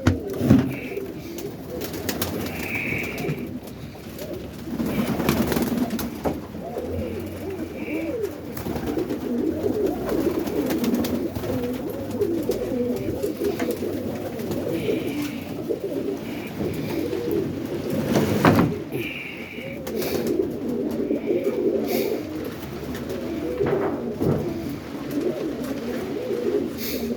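Many roller pigeons cooing together in a small loft, a steady overlapping murmur of low calls, with a few short higher-pitched notes and an occasional sharp knock or flap.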